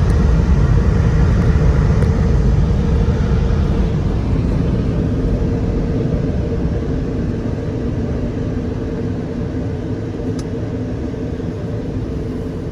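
Automatic drive-through car wash heard from inside the car's cabin: a steady rushing noise over a low rumble, slowly fading toward the end.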